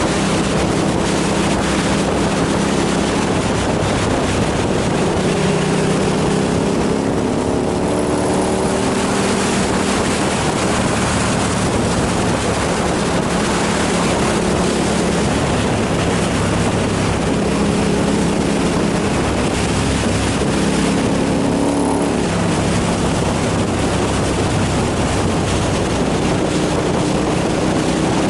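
Motorcycle engine running at road speed under heavy wind rush on the microphone. The engine pitch shifts a couple of times, around eight seconds in and again around twenty-two seconds in.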